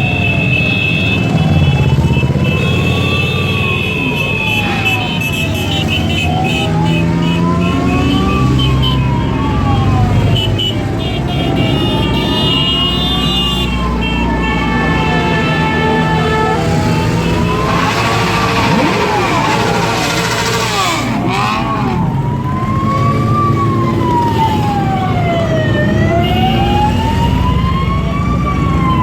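A siren wailing slowly up and down, about one rise and fall every five seconds, over the steady running of many motorcycle engines. About two-thirds of the way in, a louder rush of noise.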